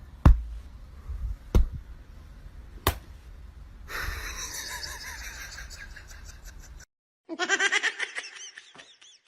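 Three sharp knocks about a second and a half apart, then a person laughing in quick repeated bursts near the end.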